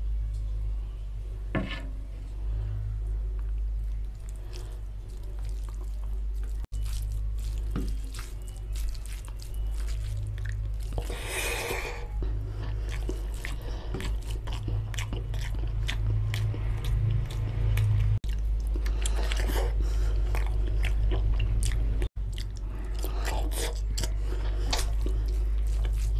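Close-miked wet chewing, lip smacks and squelches of a mouth eating rice and chicken curry, with a hand squishing rice in oily curry gravy, over a steady low hum.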